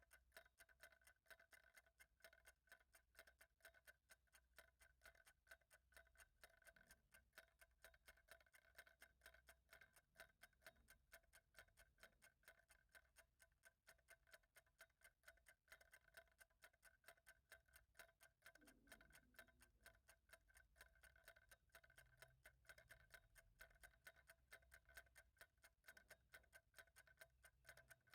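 Faint, rapid, even ticking of a clock, each tick carrying a small ringing tone.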